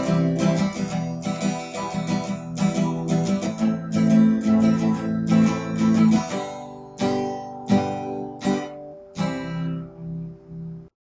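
Background music: acoustic guitar strumming chords, slowing to a few spaced strums in the second half and stopping suddenly near the end.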